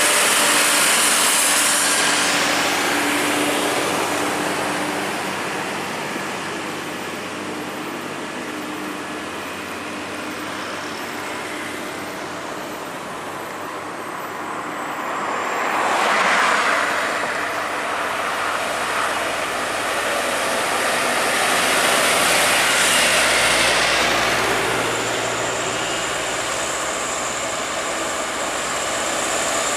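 Highway traffic of heavy trucks passing on an uphill grade: diesel engine drone and tyre noise that swell as vehicles go by, loudest near the start, about sixteen seconds in and again around twenty-two to twenty-four seconds.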